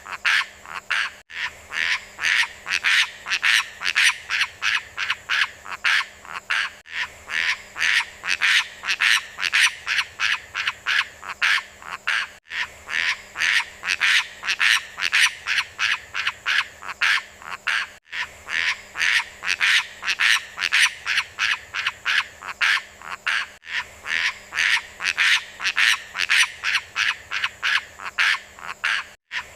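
A bird's rapid, repeated chattering calls, about four a second, running on without pause. The same few-second stretch is repeated, with a tiny break at each repeat.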